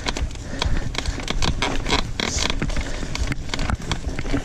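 Bicycle riding over a rough trail: the frame and parts rattle and tick in many irregular clicks and knocks over a steady low rumble of tyres on dirt.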